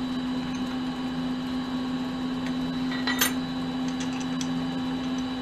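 Mini lathe running with a steady hum while brass hex stock is set up for center drilling, with one short sharp click about three seconds in.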